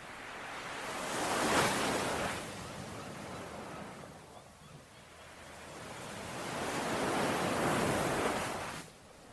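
Ocean waves breaking on a shore: a hiss of surf that swells up and fades away twice, peaking about one and a half seconds in and again near eight seconds, then drops off sharply just before the end.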